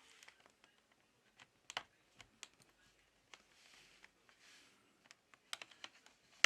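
Plastic spudger prying the back cover off a Samsung Galaxy Tab 3 P5210: scattered, irregular sharp clicks of the cover clips and tool, with stretches of faint scraping a little past the middle.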